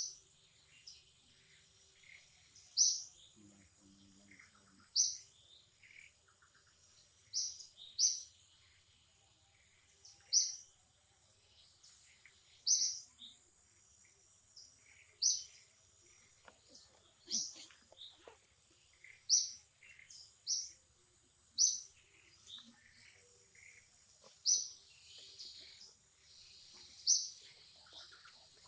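A bird calling with a short, high chirp repeated every two to three seconds, over a faint steady high-pitched hum.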